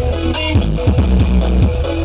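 Electronic dance music played loud through the Blizzard Audio carnival sound system, with heavy bass and repeated falling bass sweeps, two or three a second.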